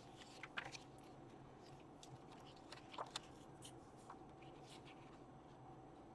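Near silence with a few faint ticks and rustles of paper being handled, two of them a little more distinct about half a second and three seconds in.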